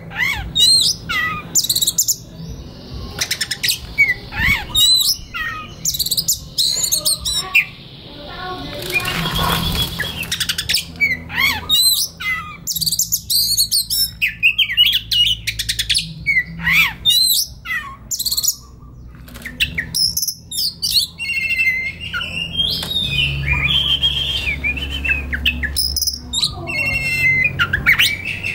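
Oriental magpie-robin (kacer) singing a long, varied song of quick whistles, trills and sliding notes, with a short harsh noisy stretch about nine seconds in.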